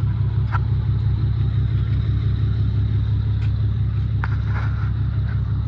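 A steady, loud, low engine rumble, like a motor vehicle idling close by, with a few faint sharp clicks over it.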